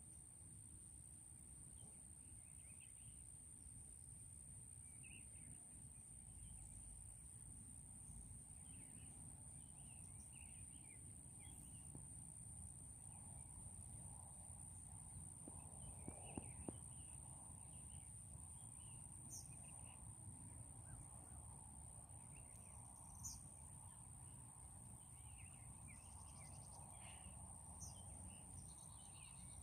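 Faint outdoor ambience: scattered small bird chirps and calls over a low steady rumble, with a thin steady high tone.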